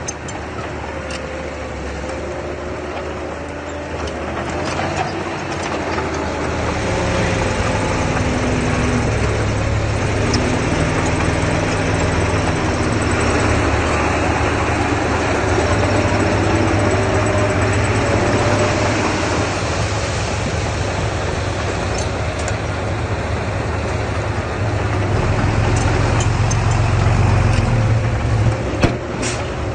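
Diesel engine of earthmoving machinery running steadily, growing louder from about five seconds in, with a few sharp knocks near the end.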